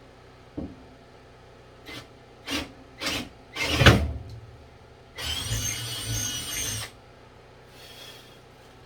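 Power drill with an Irwin bit drilling a hole: a few short bursts, the loudest about four seconds in, then the drill runs steadily with a whine for under two seconds before stopping.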